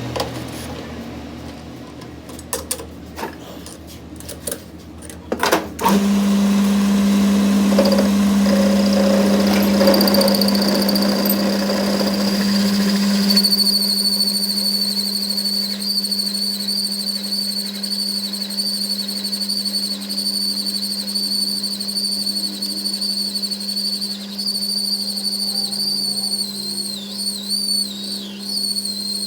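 Workshop machine switched on about six seconds in after a few clicks and knocks, then running with a steady hum and a high, steady whine that wavers near the end.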